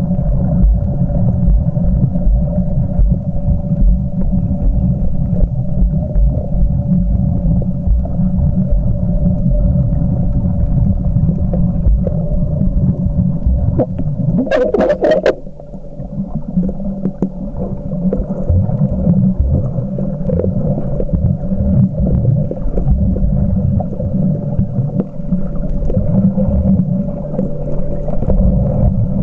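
Muffled low rumble of water and movement around a camcorder filming underwater while snorkeling, with a faint steady hum. About halfway through there is a brief cluster of sharp clicks, and the rumble dips for a moment.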